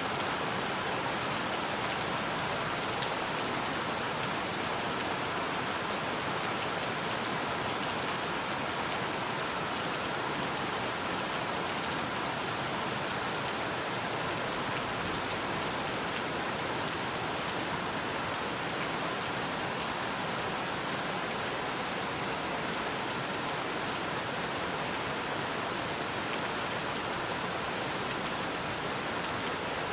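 Steady rain falling: an even hiss of rain on surfaces, flecked with many small drop ticks.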